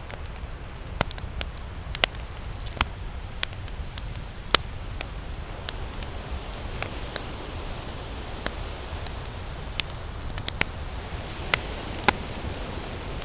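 Wood campfire crackling, with irregular sharp pops, a few of them loud, over a steady low rush.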